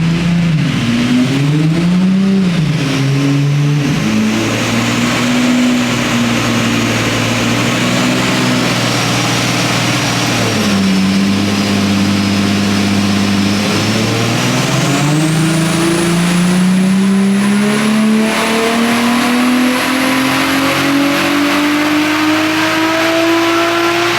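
Turbocharged VR6 six-cylinder engine of a VW Golf R32 running on a chassis dyno. The revs rise and fall a few times, hold steady, dip about ten seconds in, then climb slowly and steadily through the last ten seconds as in a dyno pull, with a thin high whine rising alongside.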